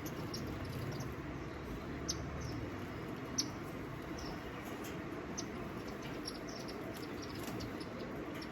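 Small birds giving short, high chirps and squeaky chips at irregular intervals, over a steady low background hum.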